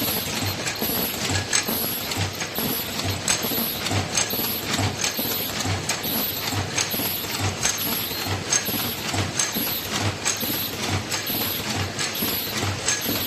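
Face-mask production machine running, its mechanism cycling at a steady pace of about one and a half strokes a second, with a regular clatter of sharp mechanical clicks over a low beat.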